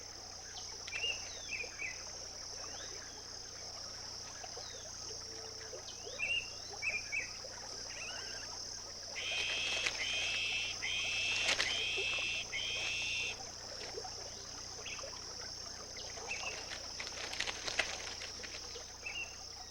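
Wetland animal chorus: a steady high-pitched insect drone, with short chirping calls scattered throughout. About nine seconds in comes a run of four longer, buzzy repeated calls lasting around four seconds.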